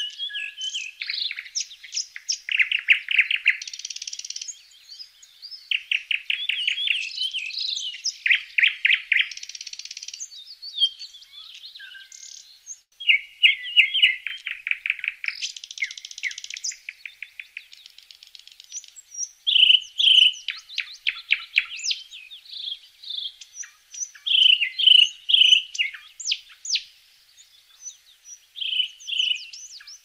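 Songbirds singing: a busy run of chirps and fast trills of repeated notes, with short pauses between phrases.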